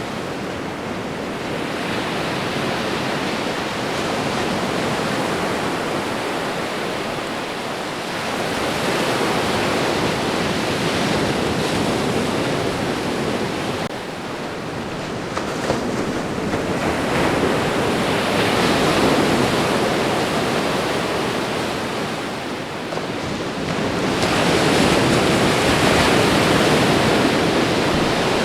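Ocean waves breaking and washing on a shore: a continuous surf hiss that swells and eases, with louder surges about every 8 seconds.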